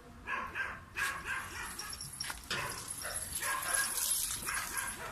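Puppy barking in short, high-pitched calls, several in a row.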